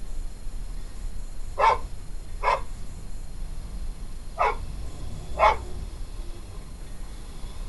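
A dog barking four times, in short single barks spaced about a second or two apart.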